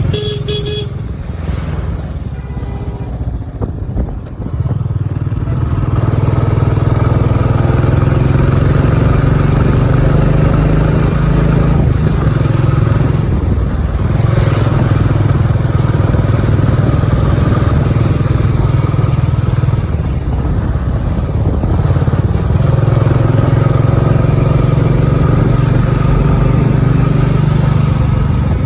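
Motorcycle engine running while riding, with steady road and wind noise. The engine eases off a few times and picks up again, most clearly about four seconds in.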